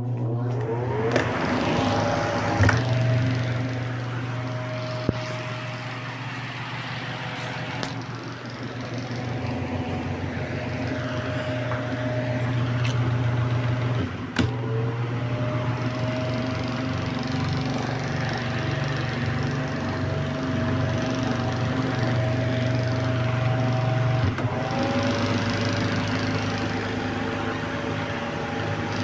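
Small DP portable fan (2 W) running: a steady motor hum with a higher whine and the rush of the blades. After a click about 14 seconds in, the whine dips and rises again, and it shifts once more about 24 seconds in.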